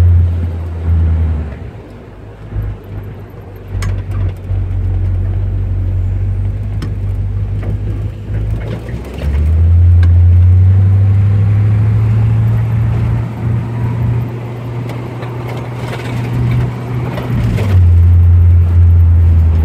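1957 Chevrolet's engine and exhaust droning low while driving, the exhaust manifold bolts freshly tightened to stop a leak. The drone grows louder about halfway through and again near the end as the car pulls harder.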